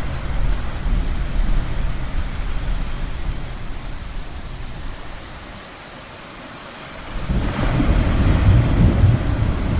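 Ocean surf with rolling thunder: a deep rumble fades away over the first half, then a new swell of rushing noise and low rumble builds about seven seconds in.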